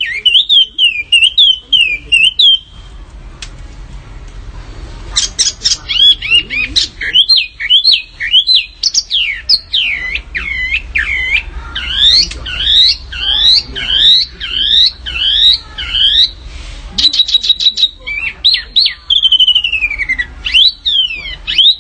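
Small songbirds singing a fast, loud fighting-style song: long runs of high sweeping chirps, one after another, with short pauses. Near the end there is a quick rattling trill of clicks before the sweeping chirps return.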